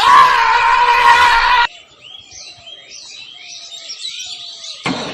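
Small birds chirping in a quick series of short calls, with a few lower whistled notes. The first second and a half is covered by a loud steady whine with hiss, and a loud noisy sound cuts back in near the end.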